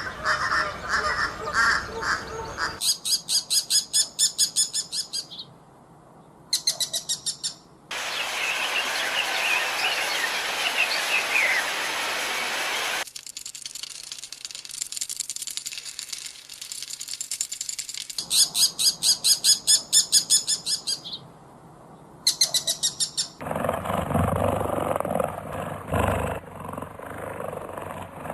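A series of short clips cut together, mostly birds chirping in fast, evenly repeated high trills, broken by a noisier stretch with a falling call and a quieter stretch; the clips change abruptly.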